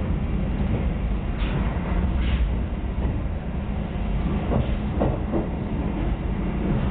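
Passenger train running, heard from inside the carriage: a steady low rumble of wheels on track, with a few sharp wheel clacks over the rails about four to five seconds in.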